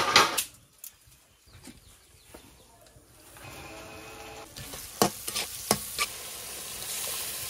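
A loud knock at the very start. About three seconds in, shallots, garlic and whole spices start sizzling in hot oil in a large karahi, and the sizzle holds steady to the end. A metal spatula stirs them, knocking sharply against the pan twice.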